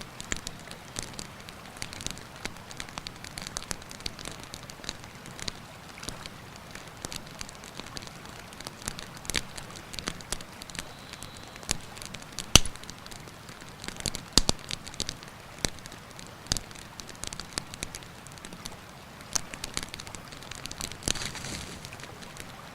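Wood campfire crackling, with irregular sharp pops and snaps, the strongest a little past the middle, over the steady rush of a mountain river.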